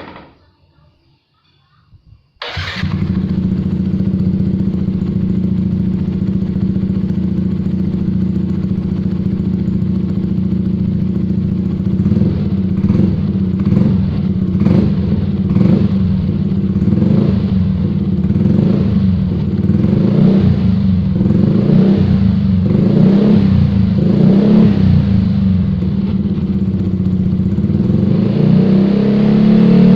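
Yamaha NMAX scooter's single-cylinder engine, fitted with an aftermarket oval exhaust, starting about two seconds in and settling into a steady idle. It is then given short throttle blips about once a second, and the revs climb near the end.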